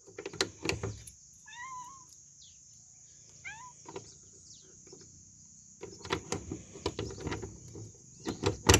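Cats meowing: two short meows about two seconds apart, with a few fainter calls. Scattered clicks and knocks come at the start and again over the last few seconds. Insects trill steadily in the background.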